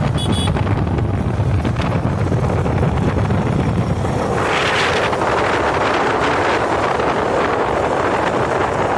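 Motorcycle ride: wind buffeting the microphone over a steady low rumble from the bike. The wind noise grows louder about halfway through.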